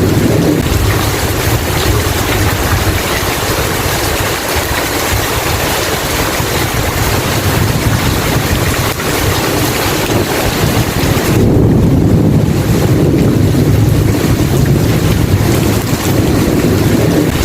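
Steady heavy rain hiss. A low rumble of thunder swells about two-thirds of the way in and rolls on for several seconds.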